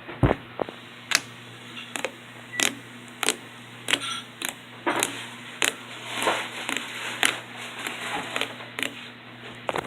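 Glossy glue slime being squeezed and stretched by hand, making a string of sharp pops and clicks as air bubbles burst, about one to two a second.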